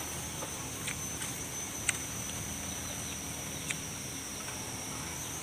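Sharp crisp clicks of biting and chewing a raw papaya stalk, the loudest about two seconds in and another near four seconds, over a steady high buzz of insects.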